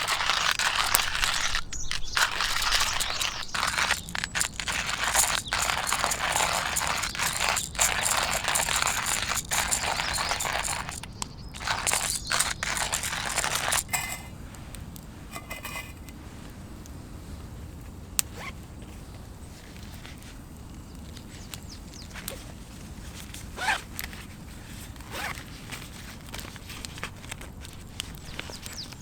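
Dense rustling and scraping handling noise, like fabric or gear being handled and packed, stopping about halfway through. After that it is quieter, with a few scattered clicks.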